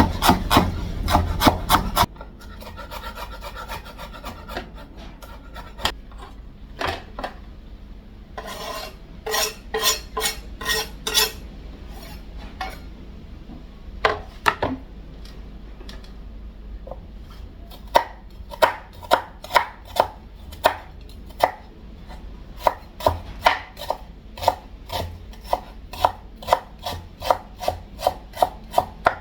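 Knife slicing seasonings such as onion and scallion thinly on a cutting board: sharp taps of the blade on the board, irregular at first, then a steady run of about three cuts a second from about two-thirds of the way in. A louder sound, likely the end of the voice-over, fills the first two seconds.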